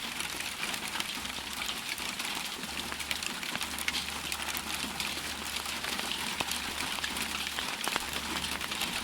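Ice pellets falling and striking hard surfaces: a steady hiss of precipitation dense with many small sharp ticks of individual pellets hitting.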